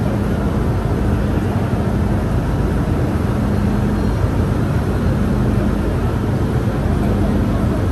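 Steady noise of an MTR Disneyland Resort Line M-Train, with a low hum that breaks off and returns every couple of seconds.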